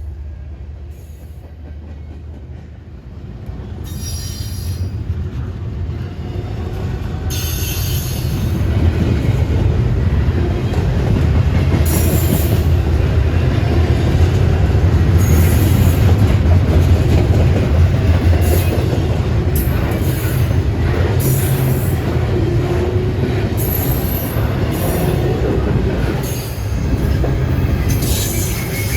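Train passing close by: a heavy rolling rumble of wheels on rail that builds over the first several seconds and stays loud, with repeated short bursts of high wheel squeal.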